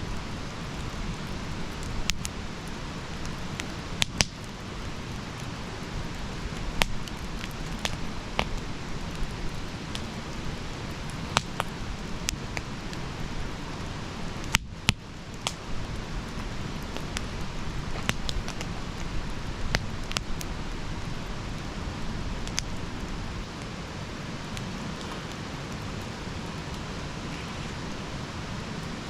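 Campfire burning: a steady low rush with irregular sharp crackles and pops of burning wood, roughly one every second or two.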